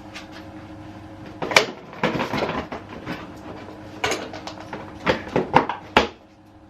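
Knocks and clanks of parts being handled on a broken air compressor, a string of sharp impacts coming thicker in the second half, over a low steady hum.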